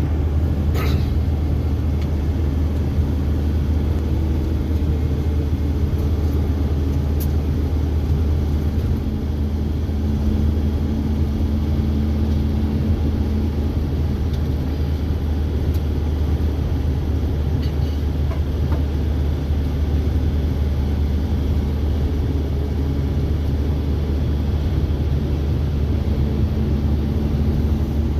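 Steady low engine and road rumble of a vehicle being driven along a highway, heard from inside the cab.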